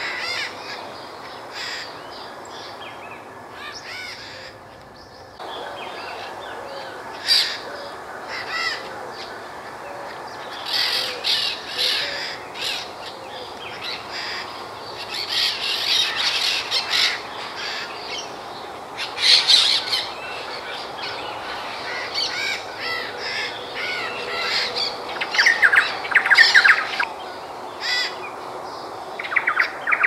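Several wild birds calling in and around a tree: many short calls in irregular clusters, over a steady background hiss.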